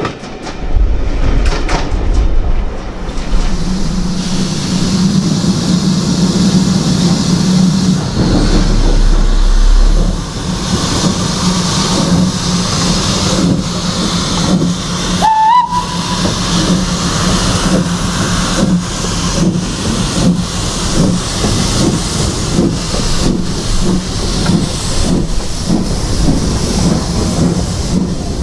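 Steam locomotive and its train running past, with a short whistle blast that rises then holds about halfway through, and regular knocking from the wheels in the second half.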